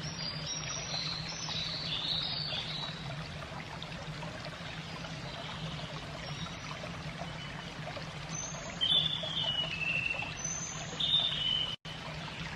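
Steady trickling, running water with a low steady hum beneath it. A bird chirps in short falling phrases in the first few seconds, and again more loudly in the last few seconds. The sound cuts out for an instant near the end.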